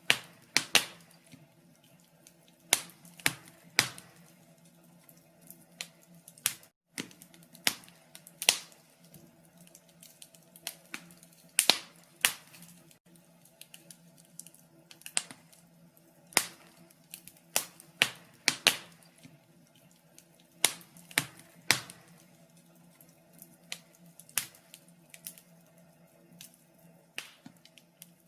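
Wood fire crackling: irregular sharp pops and snaps, some much louder than others.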